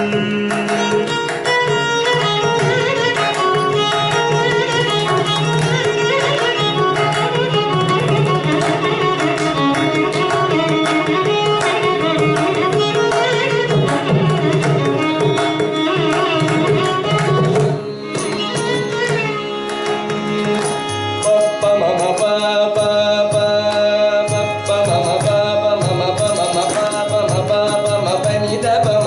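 Carnatic music: mridangam strokes under a melodic line that moves through quick swara-like phrases, changing texture about eighteen seconds in.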